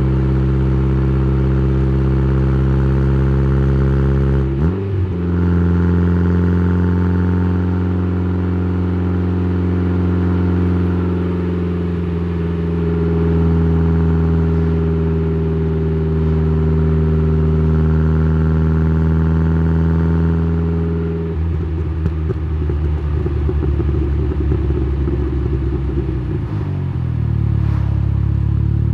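Tuned Saab 9-3's turbocharged 2.0-litre four-cylinder (B204) exhaust heard close up through an exhaust microphone, cruising at steady revs. About four or five seconds in the revs jump up quickly and hold at a higher steady pitch; past the two-thirds mark the revs fall off into a rougher, uneven running, with a quick rise again at the very end.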